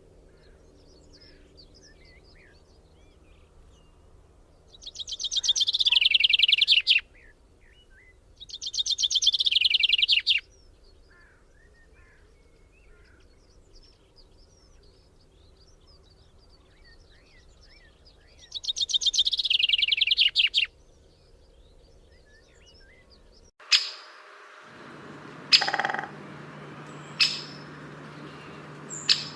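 A songbird singing three loud, fast trills of about two seconds each, each slightly falling in pitch, over faint scattered chirps. About 23 seconds in the background changes abruptly and short, sharp chip calls follow roughly every second and a half.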